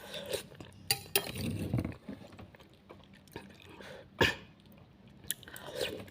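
Close-up eating sounds: a person chewing a mouthful of noodles and tomato, with wet mouth noises and small clicks, and one sharp click a little after four seconds in.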